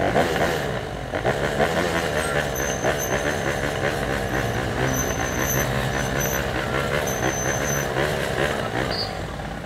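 Sachs MadAss 125cc single-cylinder four-stroke motorcycle engine running while riding slowly through traffic, its note rising and falling with the throttle. A thin high whine comes and goes several times.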